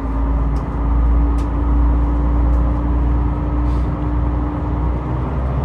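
Train pulling away, heard from inside the carriage: a heavy low rumble with a steady hum that rises slightly in pitch as it gathers speed, then fades near the end.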